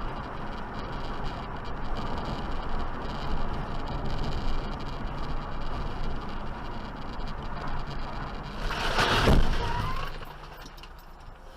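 Steady driving noise of a car on the road, then a loud rushing swell about nine seconds in that dies away by the end.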